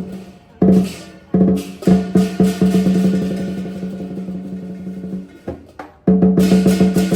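Lion dance drumming: a few spaced strikes, then a fast run of beats that dies away. About six seconds in, loud rapid drumming breaks in again.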